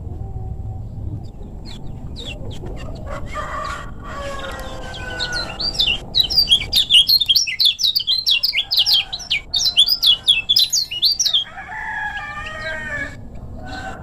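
Kecial kuning (Lombok white-eye) singing: a fast, loud run of rapid high chirps starts about five seconds in and breaks off a few seconds before the end. Lower wavering calls come before and after it, over a steady low hum.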